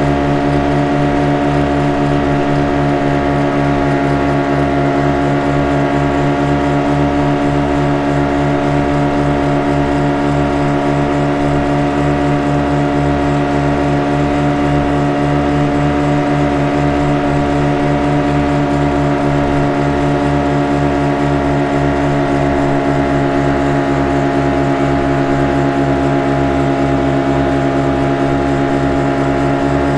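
Motorboat engine running at a steady speed: an even, many-toned drone over a rapid low throb, with no change in pitch.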